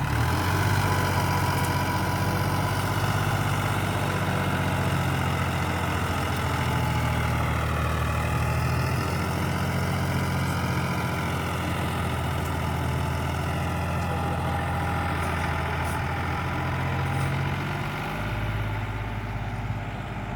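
Sonalika DI 35 RX tractor's diesel engine running steadily. Its note sags and comes back up a little past the middle, and it settles to a lower note near the end.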